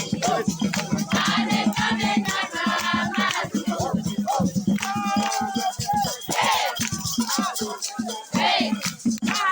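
Group of voices singing and chanting over a steady, busy rattle of shakers keeping the beat.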